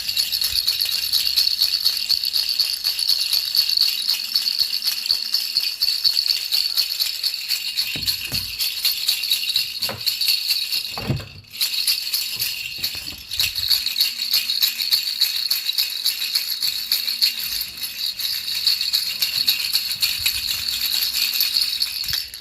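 Baby rattle shaken continuously, a dense, rapid jingling rattle with a brief break about halfway through and a few soft knocks around it.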